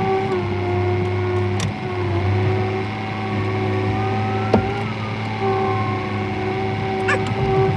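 Tractor engine running with a steady whine over it, its pitch shifting slightly now and then, while it handles a hay bale; a few sharp clicks or knocks sound through it.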